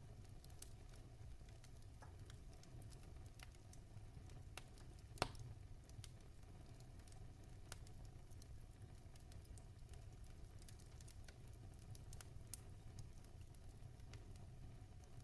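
Wood fire crackling in a fireplace: scattered faint pops and ticks over a low steady rumble, with one sharper pop about five seconds in.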